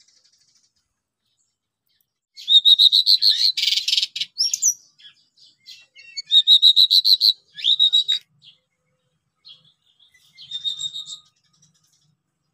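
A songbird singing three bursts of fast, high, repeated chirps, loud and close, with a few single notes in between.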